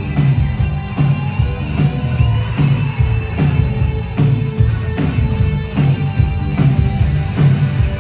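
A live new wave rock band playing: electric guitar over drums with a steady, fast beat of about two strikes a second.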